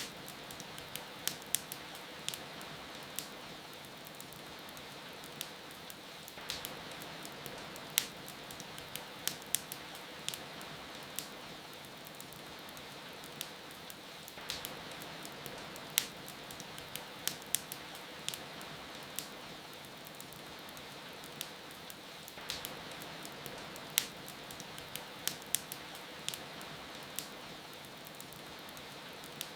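Steady rain with a fireplace fire crackling: an even hiss of rain under irregular sharp pops and snaps from the burning wood.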